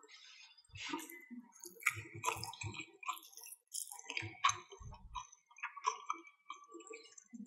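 Close-miked chewing and mouth sounds of a person eating fried beef and rice: irregular clicks and smacks with a few soft low thuds.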